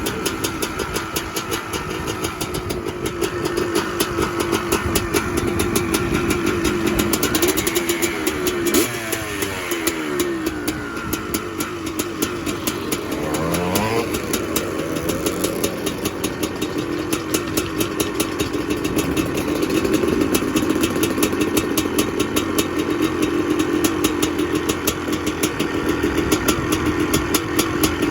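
Honda CR500 single-cylinder two-stroke motocross engine running steadily. The revs briefly rise and fall twice near the middle.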